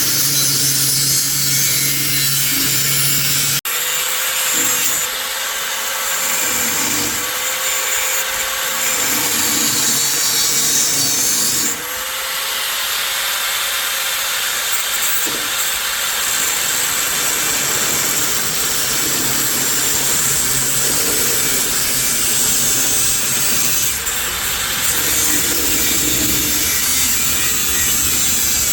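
Handheld power tool grinding steadily, with a harsh, hissing abrasive noise that breaks off sharply twice, about four and twelve seconds in.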